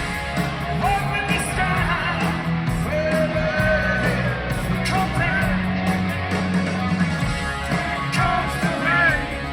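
Live rock music: a rock band playing, with a voice singing over it.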